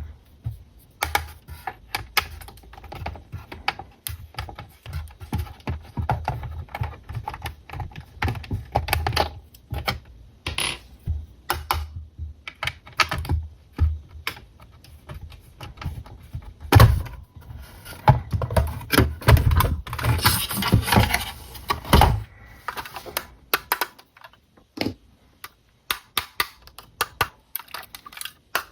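Hands handling a 1:20 scale RC toy car and its plastic packaging: quick, irregular clicks and taps, with a louder stretch of rustling and knocking about two-thirds of the way in, then only scattered clicks near the end.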